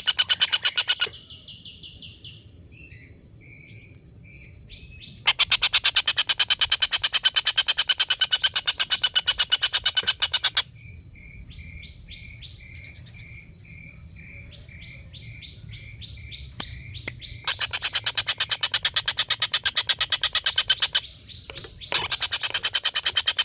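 Tengkek buto kingfisher giving its long chattering 'ngekek' call: loud runs of very rapid, evenly repeated sharp notes lasting several seconds, broken by spells of quieter, slower short notes.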